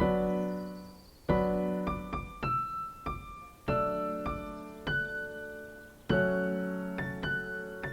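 Background piano music: slow chords, each struck and left to fade, about every two and a half seconds, with a few single notes between them.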